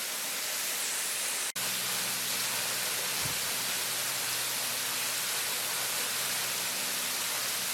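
Steady rushing roar of a waterfall. About a second and a half in, the sound drops out for an instant, and a faint low hum runs underneath after that.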